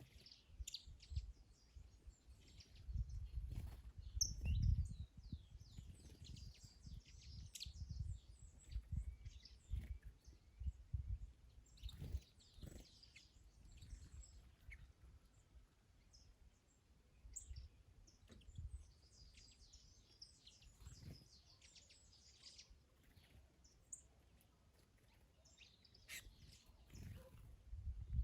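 Several small birds chirping and singing in short, scattered phrases, over gusts of wind buffeting the microphone.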